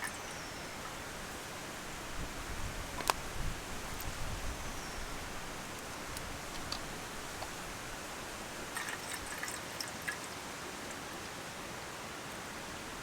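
Steady rushing of a stream, with a sharp click about three seconds in and a few low thumps around it.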